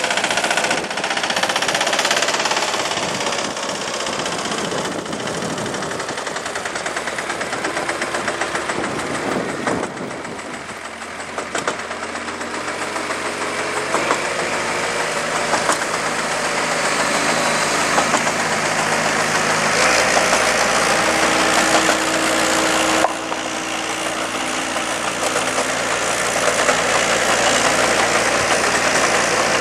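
A helicopter's engine and rotor running, a loud steady mechanical noise with a rhythmic pulse, changing abruptly about 14, 20 and 23 seconds in.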